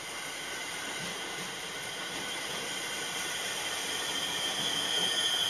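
JR East E231 series electric train pulling into the platform, its cars rolling slowly past with a steady hiss and several thin high whines. A high squeal swells near the end as it slows.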